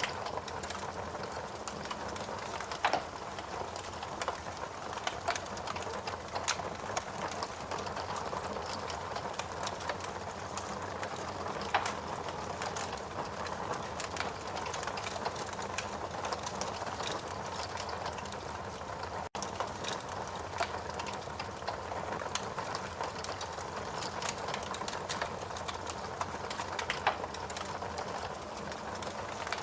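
Wood fire crackling in a fireplace: a steady hiss full of small crackles, with a few louder pops. The sound drops out for a split second about two-thirds of the way through.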